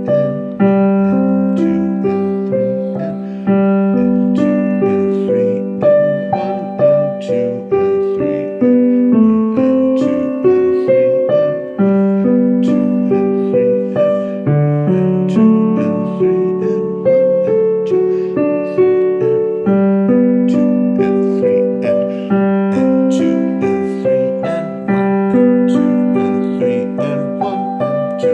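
Solo piano playing a piece in 3/4 waltz time, with long-held bass notes under a moving melody.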